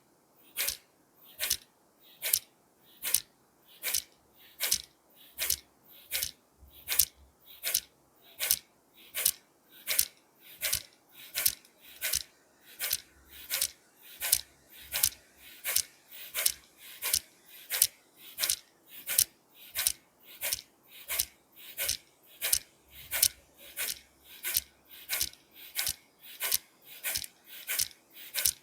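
Kapalabhati breathing: a person blowing short, forceful exhalations out through the nose, each one a sharp hiss pumped by the abdomen, in a steady rhythm of a little under two a second.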